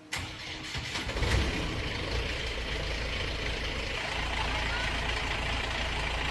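A loud motor or machine running steadily, with a deep rumble under a broad hiss.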